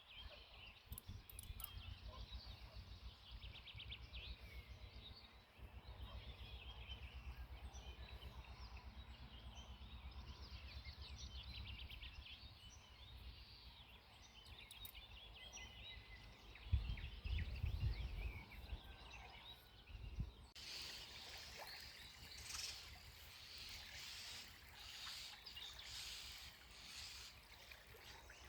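Songbirds singing and chirping, faint, over a low rumble that swells briefly a little past halfway. About two-thirds of the way in the sound changes abruptly to a brighter, steady hiss under the birdsong.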